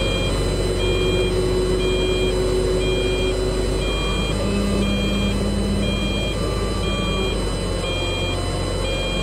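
Vehicle reversing alarm beeping steadily about once a second, over the steady low drone of a heavy vehicle's engine.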